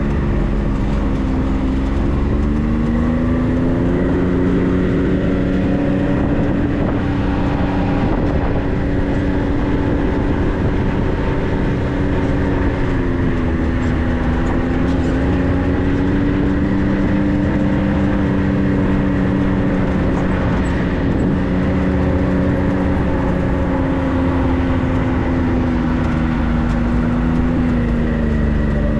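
A vehicle's engine running steadily under way, its note slowly dropping and rising again a few times, over a continuous low rumble.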